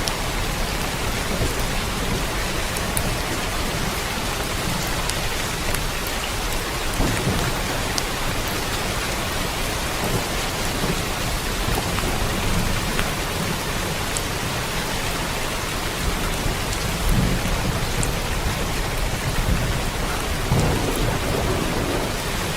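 Steady rain falling in a dense, even hiss, with a few low rumbles swelling up now and then, about a third of the way in and again near the end.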